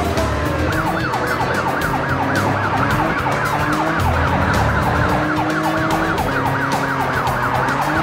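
Police car siren in a fast yelp, rising and falling about four times a second, coming in about a second in, over background music with a repeating bass line.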